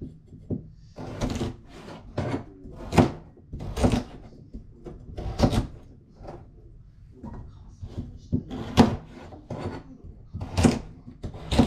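Irregular knocks and clatter of kitchen work, such as utensils and a knife on a cutting board and counter, about one a second.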